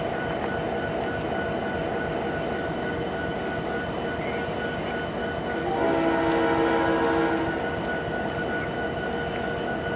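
A diesel locomotive horn sounds one chord of about two seconds, a little over halfway through, over the steady rumble of a passing train.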